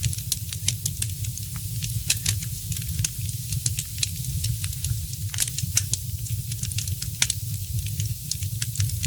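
Wood fire in a fireplace crackling, with frequent sharp, irregular pops and snaps over a steady low rumble of the burning flames.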